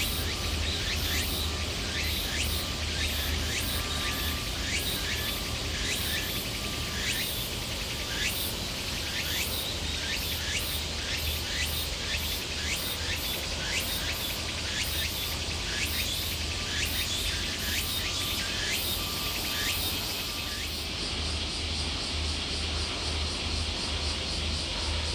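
Outdoor ambience: a steady hiss overlaid with many short, sharp chirps, several a second, which die away about twenty seconds in.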